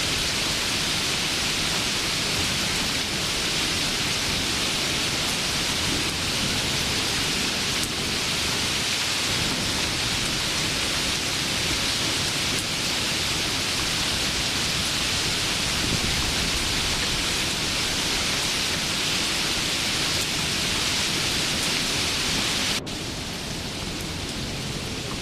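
Steady heavy rain, a dense even hiss; near the end it cuts abruptly to quieter, softer rain.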